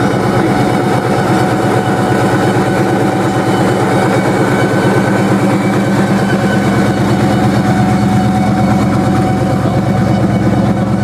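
A vehicle engine idling steadily and loudly, with an even, rapid pulse that holds the same pitch throughout.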